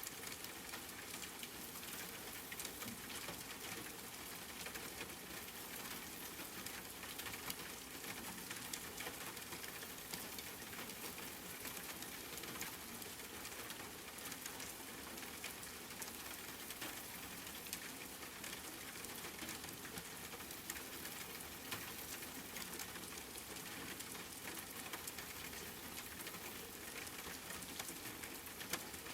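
Steady rain falling, a continuous hiss dotted with fine close drop patters.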